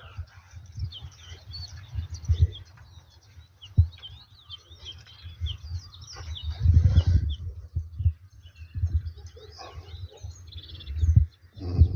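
Small birds chirping, many short high calls, over irregular low rumbling thumps on the microphone that are loudest a little past the middle.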